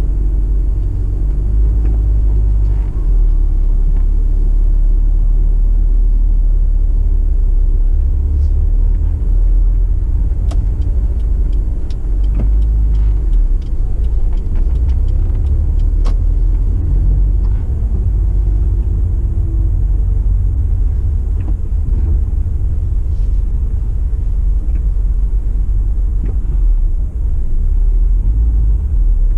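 2007 Honda S2000's four-cylinder engine running at low revs while the car rolls along slowly, heard from inside the cabin as a steady, deep drone. A few light clicks and ticks come through around the middle.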